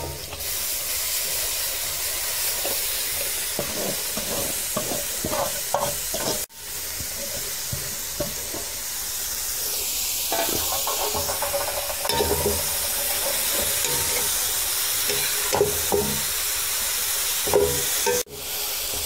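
Grated carrot sizzling as it fries in hot ghee in a metal wok, with a metal spatula scraping and knocking against the pan as it is stirred. The sizzle breaks off briefly twice.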